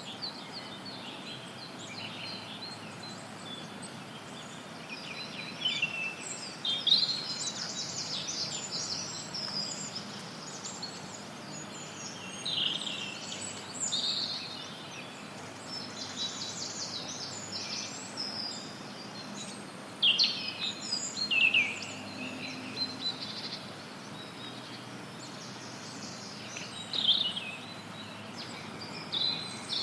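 Several songbirds calling and singing in short chirps and trills over a steady hiss of background noise, with the loudest calls about a quarter, two thirds and nine tenths of the way through.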